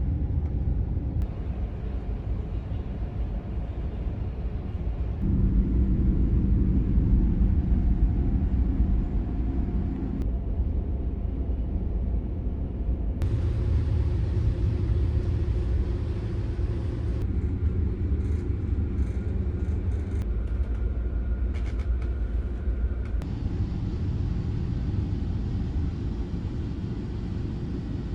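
Steady low rumble of the ferry New Kunisaki's engines heard on board while under way, its tone changing abruptly several times.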